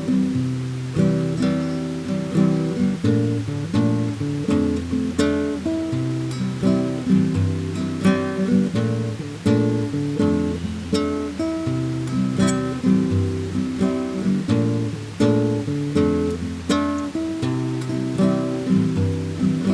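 Acoustic guitar playing a slow tune of plucked notes and chords.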